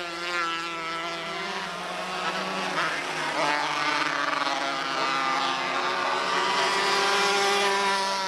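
Several small race-car engines running together on track, their pitch rising and falling as they rev and pass.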